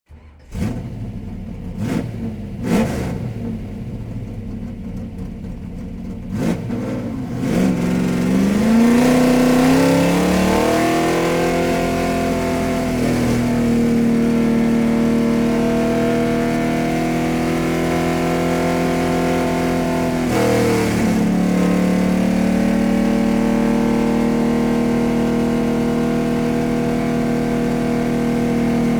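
Car sound effect: a few sharp knocks, then an engine rising in pitch as it accelerates and running at a steady high pitch. About twenty seconds in the pitch drops briefly and climbs back, like a gear change.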